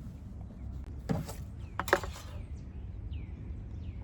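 Small bird chirping faintly, three short falling calls, over a low steady hum. Two brief handling noises, about a second and two seconds in, are the loudest sounds.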